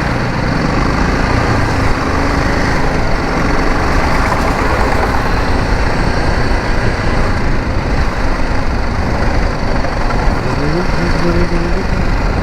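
BMW G 310 GS's single-cylinder engine running under way, mixed with heavy wind and road noise on the microphone; near the end its pitch rises and then holds as the bike speeds up.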